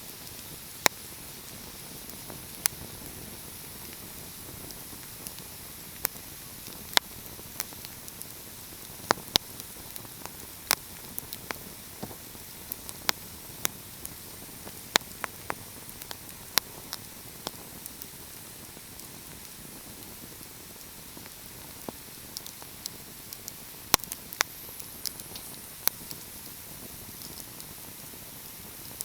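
Wood fire crackling: a steady soft hiss broken by sharp, irregular pops and snaps, some coming in quick clusters.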